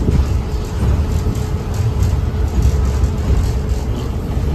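Reading & Northern train running, heard from on board: a steady low rumble with a faint steady hum above it.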